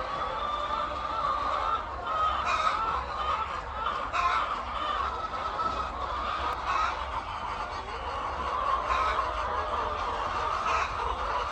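A flock of chickens clucking and calling together in a steady, dense chorus, with a few louder single calls standing out now and then.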